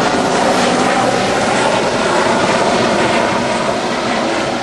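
RAF Sea King helicopter's rotors and turbine engines running loud and steady.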